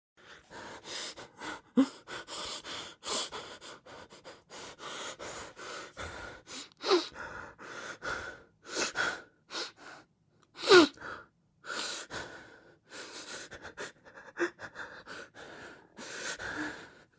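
A person crying hard: a run of gasping, sobbing breaths broken by a few short cries that fall in pitch, the loudest about eleven seconds in.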